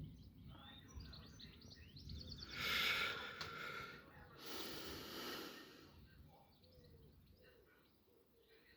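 Faint outdoor birdsong, with two short swells of rushing noise about two and a half and four and a half seconds in, then near silence.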